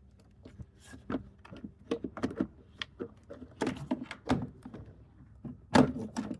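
The plastic engine air filter housing and cover of a 2007 Honda Accord V6 being handled and fitted together: a string of irregular clicks and knocks, the loudest a sharp clunk near the end.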